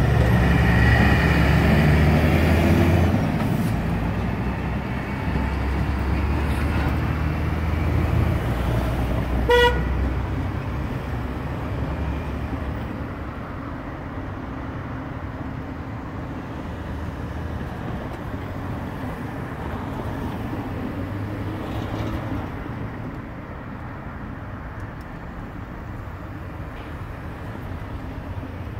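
A train's rumble fading away as it recedes down the line. A short single-note horn toot sounds about ten seconds in.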